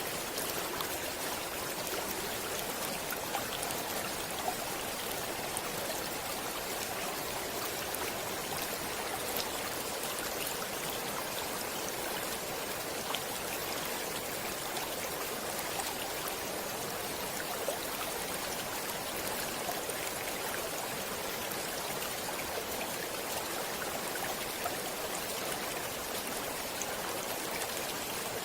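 Stream water flowing steadily: a continuous rush with small splashes and drips scattered through it.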